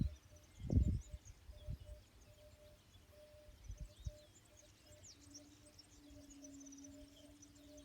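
Small birds chirping and twittering faintly, with a low bump about a second in and a steady low hum during the second half.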